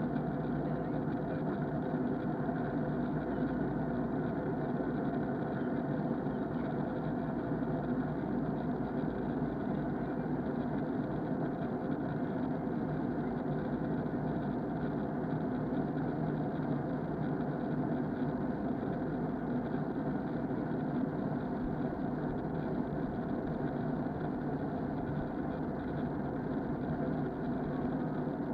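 Steady drone of an Airbus A321 in flight, heard inside the cabin: its IAE engines and air rushing past the fuselage, as an even, unchanging roar with faint steady hums in it, muffled by the action camera's case.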